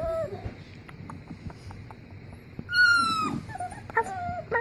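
Puppy whimpering: a short whimper at the start, a long, high whine about three seconds in that falls slightly in pitch, then a few shorter whimpers near the end.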